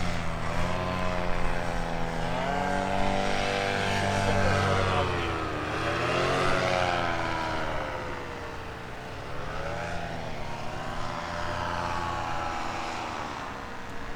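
Small propeller-driven aircraft engines flying past low overhead, their drone rising and falling in pitch as they pass.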